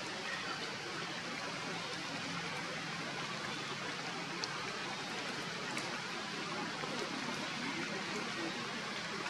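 Steady hiss of rain, with a few faint ticks through it.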